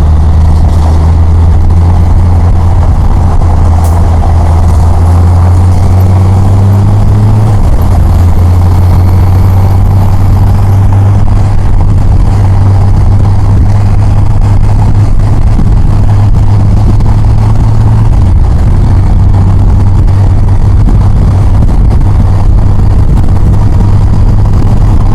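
Yamaha FJR1300's inline-four engine running steadily while riding in traffic, under a constant rush of noise. The engine note drops slightly about seven seconds in and again about eighteen seconds in.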